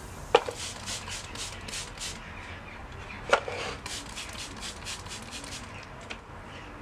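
Handling noises: quick scratchy rubbing strokes with two sharp knocks about three seconds apart, the first the loudest.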